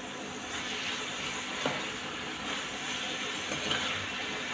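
Chopped green bell peppers sizzling in a pan of masala as a spatula stirs them, with a couple of light clicks of the spatula against the pan.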